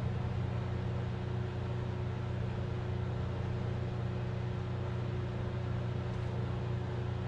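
Steady low hum with a faint constant tone above it and a light hiss, unchanging throughout, with no knocks or handling noises.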